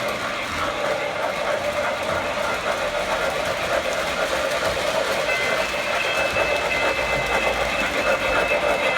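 MTH model trains running around the track: a steady whirring rattle of motors and wheels on rail joints. A thin high tone joins in about five seconds in.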